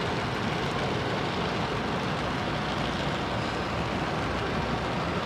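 Steady running noise of an HO scale model train moving along the layout track, an even rumble with no distinct clicks or tones.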